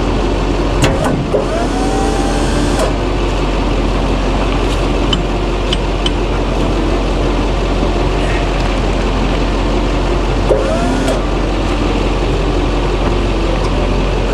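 Duramax diesel pickup engine idling steadily, with a brief whine gliding in pitch about a second in and again about ten seconds in, and a few light clicks.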